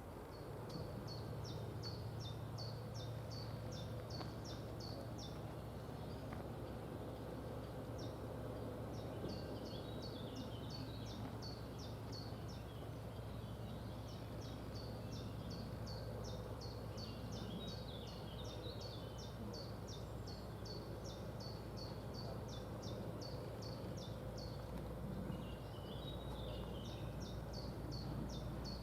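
Ganz SN61 diesel railcar's engine idling with a steady low drone. Series of short, high chirps repeat over it every few seconds.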